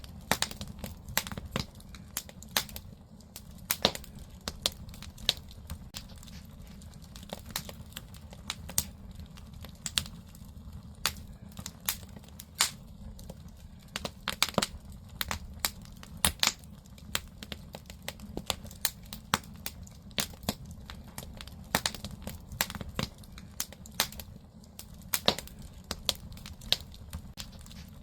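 Firewood burning in an agungi, a traditional Korean wood-fired firebox: irregular sharp pops and crackles over a steady low rumble of the fire.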